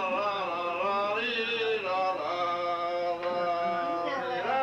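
Long, drawn-out vocal notes with a clear pitch that slowly rises and falls, held for a second or more at a time with brief breaks.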